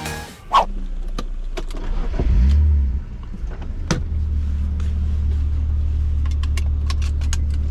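BMW E36 M3 straight-six starting up: a sharp click just after the start and scattered small clicks, then the engine catches with a brief rising rev flare about two and a half seconds in and settles into a steady idle.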